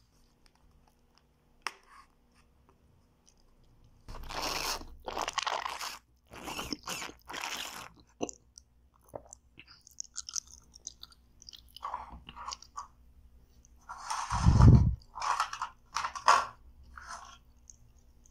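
Chewing and crunching of food close to the microphone, in several irregular bursts, with a heavier low thump about two-thirds of the way through.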